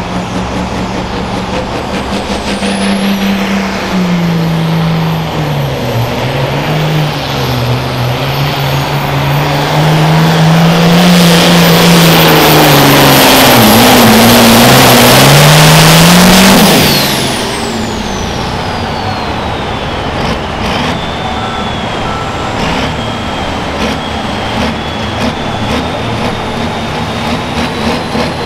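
Turbocharged diesel engine of a Super Farm pulling tractor under full throttle dragging the weight sled, its pitch wavering as it loads and unloads, over a high turbo whine. It is loudest about ten seconds in; then the throttle is chopped, the turbo whine falls away and the engine drops to a lower, steadier run.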